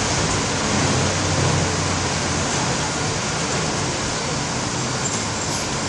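Steady, dense hiss of heavy rain, with a low engine hum beneath it that fades about two to three seconds in.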